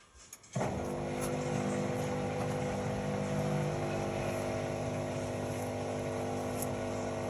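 Indesit Innex XWA 81252 washing machine running, its motor giving a steady hum of several fixed pitches that starts suddenly about half a second in.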